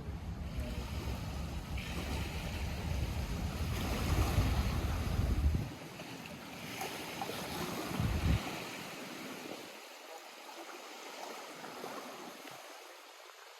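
Small lake waves lapping and splashing at the shore. Gusts of wind rumble on the microphone in the first half, stop abruptly a little before halfway, and return briefly.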